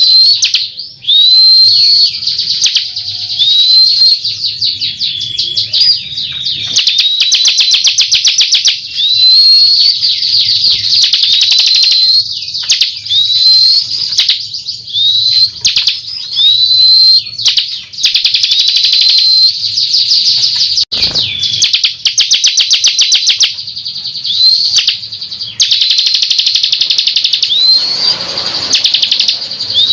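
Ciblek kristal (bar-winged prinia) lure recording: loud, continuous song of repeated rising whistled notes, each running into a fast ticking trill, a phrase about every second or two.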